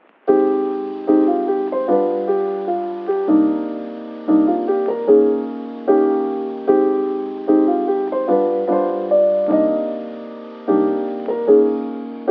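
Slow piano music: notes and chords struck one after another, each ringing and fading.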